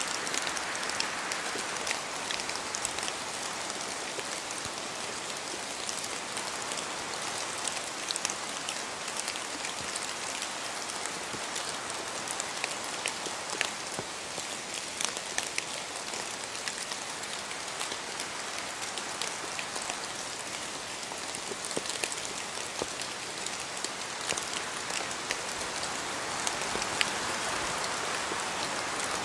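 Steady rain falling in a forest, with drops dripping from the trees as many scattered small ticks over a continuous hiss; the hiss swells gently near the start and again near the end, like gusts of wind.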